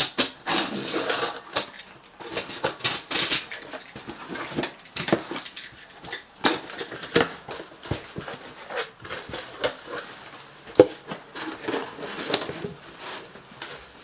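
Cardboard shoe box and its packaging being handled and opened by hand: a busy string of crinkles, rustles and small knocks.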